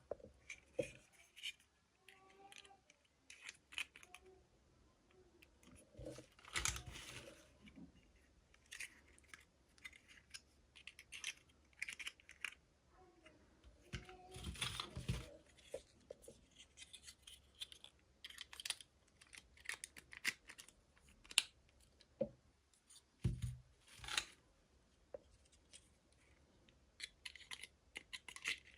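Packaging being handled and opened by hand: a string of small clicks, snips and rustles, some like scissors cutting and tearing.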